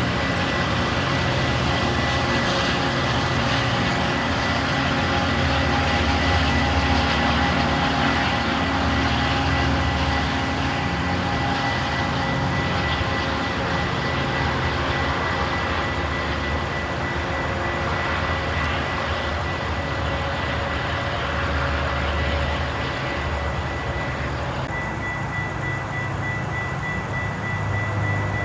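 A train running past: steady rumble and rolling noise, with a thin steady high tone above it.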